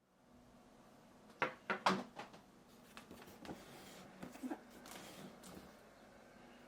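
Handling noises: a quick cluster of sharp knocks about one and a half to two seconds in, then a few lighter taps and faint rustling.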